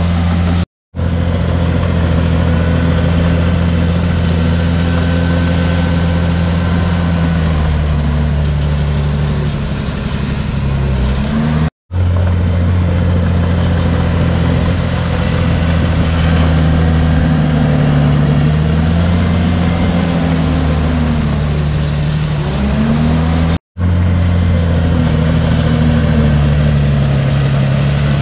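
Komatsu D51PX bulldozer's diesel engine running under working load, its speed rising and falling slowly. The sound cuts out briefly three times.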